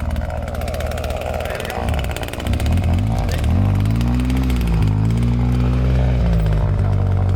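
The Ranger's engine running in low range. About two and a half seconds in it revs up and the pitch climbs, then it holds at higher revs with the pitch wavering a little.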